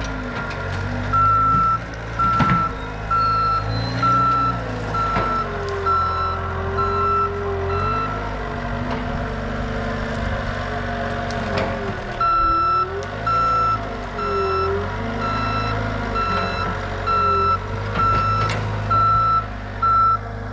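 Backup alarm of a heavy diesel vehicle beeping about twice a second, stopping for a few seconds in the middle and starting again, over the engine running and changing speed. A few sharp knocks.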